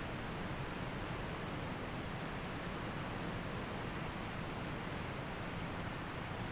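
Waterfall, falling water rushing in a steady, unbroken wash of noise.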